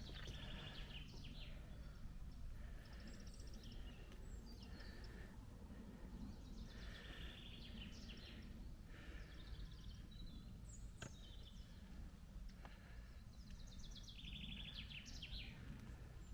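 Several songbirds singing, with quick repeated trills and chirps coming every few seconds, over a faint, steady low rumble.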